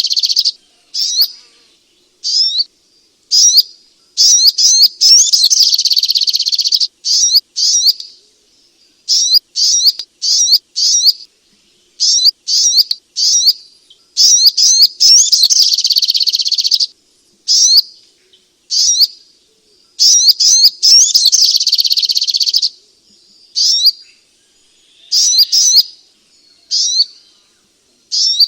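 Spiderhunter (sogok ontong) calling: series of high, sharp chirps and rapid trills in short bursts, with three longer dense trilling phrases of two to three seconds each, separated by brief pauses.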